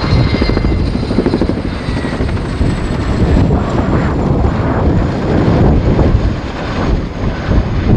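RAF Boeing Chinook HC.6 tandem-rotor helicopter in display flight, its two contra-rotating rotors making a continuous rapid blade slap. A faint high whine above it sinks slowly in pitch.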